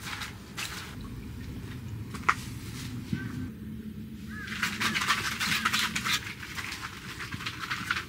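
Spoon clinking against a bowl while soy sauce is measured out by the spoonful for a sauce, with scattered single clicks and then a quick run of clinks and scraping from about four and a half seconds in. A steady low hum lies underneath.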